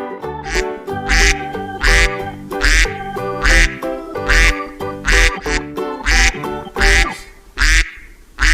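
A duck quacking again and again, a little more than once a second, over background music with a steady beat.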